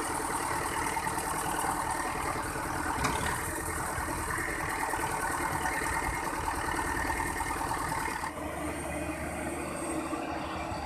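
Engine of an excavator at work running steadily, with a single short knock about three seconds in. About eight seconds in the sound changes: the higher part drops away and a steady deep hum takes over.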